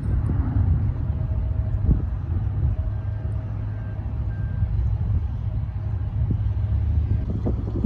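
Steady low rumble of distant jet airliner engines.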